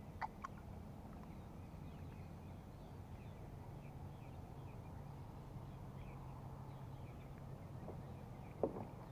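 Quiet lakeside ambience: a steady low hum with faint scattered bird chirps. A few sharp clicks and knocks of gear being handled come just after the start and near the end, the loudest about a second before the end.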